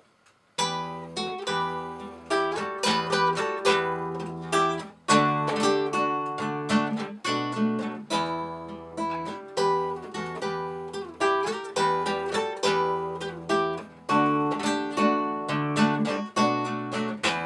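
Acoustic guitar playing the introduction to a song, plucked and strummed chords with sharp note attacks, starting about half a second in.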